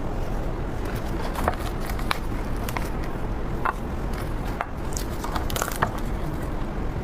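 Durian being handled and opened by hand: scattered short crackles and clicks over a steady low hum.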